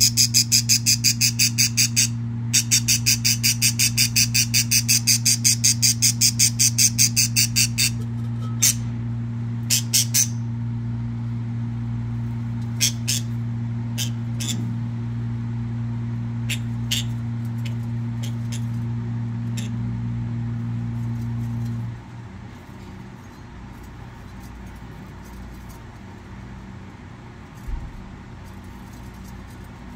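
Budgerigars calling: a fast, even run of sharp chirps, about four or five a second, for the first eight seconds, then scattered single chirps. A steady low hum runs underneath and cuts off about two-thirds of the way through.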